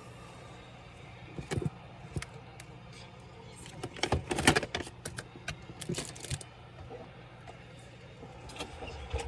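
Irregular clicks and clatter of small hard parts and tools being handled while taking apart a Dell Latitude 3301 laptop, with a busy cluster of knocks about four seconds in and a few more near the end.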